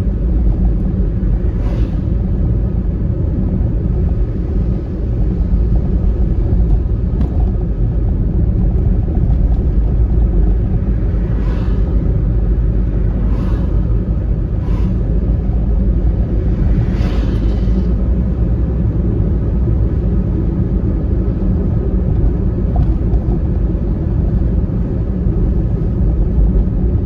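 Steady low road and engine rumble heard from inside a moving Honda Freed minivan, with a few brief faint noises over it near the middle.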